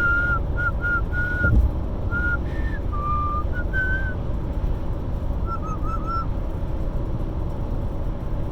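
Pet parrot whistling a series of short, clear notes, mostly at one pitch with a few stepping up and down, followed by a brief cluster of warbled notes about six seconds in. Steady car road noise runs underneath, with one low thump early on.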